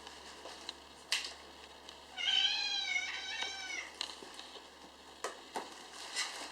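A kitten meowing once, a long wavering cry lasting over a second and a half, with a few short clicks and knocks before and after it.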